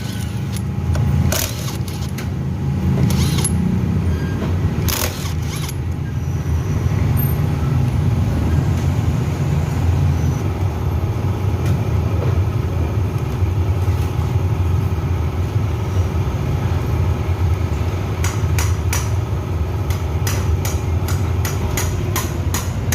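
A steady low machine hum, with a thin steady tone over it through most of the middle. Sharp metallic clicks come near the start and again several times near the end.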